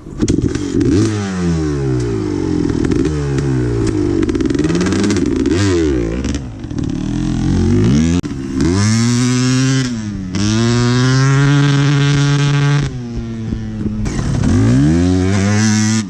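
Honda CR250's single-cylinder two-stroke engine running loud under hard throttle. Its pitch climbs and drops again and again with throttle and gear changes, holds high for a couple of seconds at a time in the second half, and dips sharply about ten seconds in.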